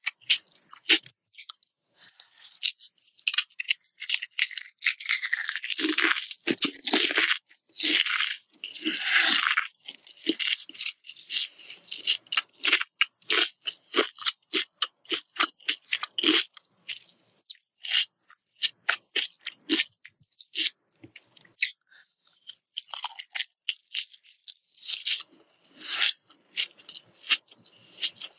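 Close-miked chewing and crunching of martabak telur, the Indonesian savory duck-egg pancake, with a dense, uneven run of crisp crunches that is heaviest in the first third.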